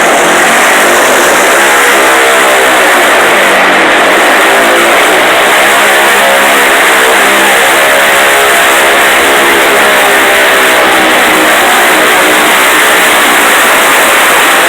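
Garden pulling tractor's engine running hard at high revs, loud and steady, its pitch wavering slightly.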